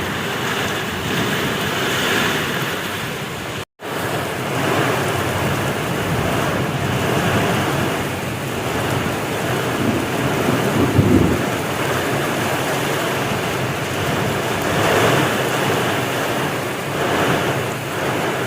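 Heavy rain pouring down in a thunderstorm, with strong wind, as a dense steady rush. The sound cuts out for an instant near four seconds in, and a louder swell with a low rumble comes about eleven seconds in.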